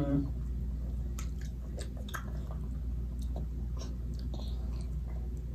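Close chewing of food, with scattered short clicks of mouths eating over a steady low hum.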